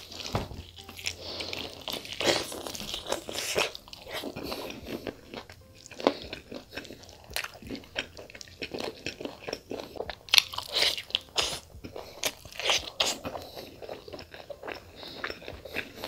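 Close-up biting and chewing of a cooked chicken leg: a bite at the start, then steady mouth-chewing made of irregular wet clicks and small crunches, with a few louder bites scattered through.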